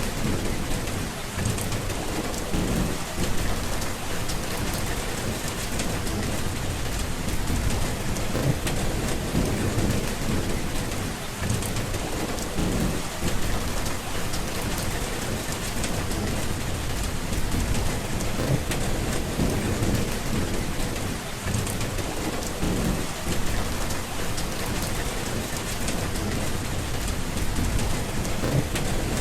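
Steady heavy rain hissing on a surface, with low thunder rumbling that swells and fades every few seconds.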